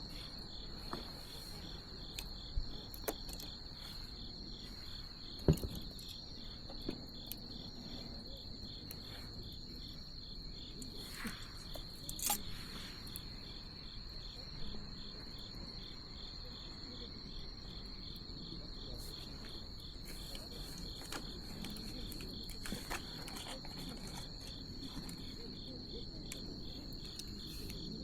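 Crickets trilling steadily in a continuous high pitch, over the low, soft rush of a bonfire with scattered crackles and pops from the burning wood; the loudest pop comes about five and a half seconds in.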